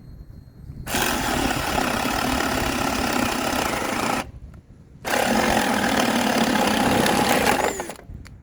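Baur 20-volt cordless drill on its high-speed setting boring a hole through wood with a spade bit, in two long runs with a short pause between.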